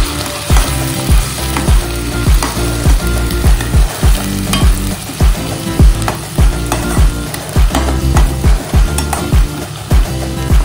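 Minced aromatics sizzling in hot oil in a non-stick kadai, stirred and scraped with a metal spatula. Background music with a steady bass beat, about two beats a second, plays over it.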